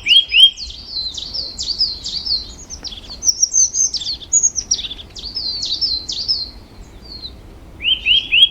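Birdsong: a run of quick rising chirps at the start and again near the end, with higher, faster falling notes trilling in between.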